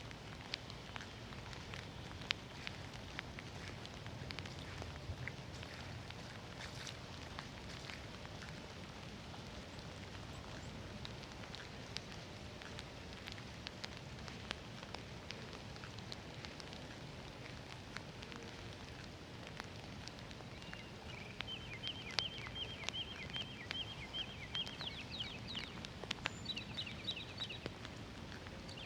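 Steady rain with individual drops ticking sharply close by. Late on, a small animal gives a high, rapid trilling call in several short runs.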